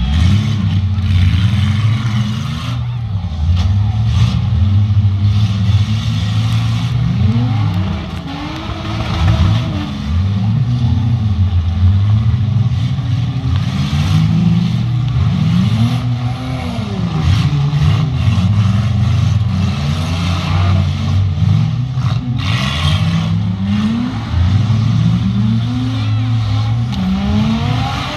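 Several six-cylinder demolition derby cars' engines running hard, their pitch climbing and falling over and over as they rev, with a few sharp bangs from cars hitting.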